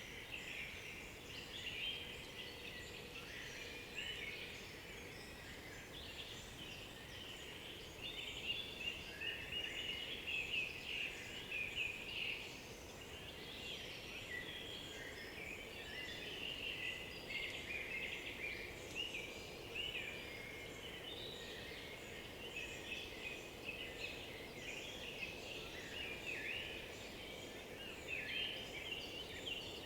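Many songbirds singing at once in a forest chorus: dense, overlapping chirps, trills and warbled phrases with no pause.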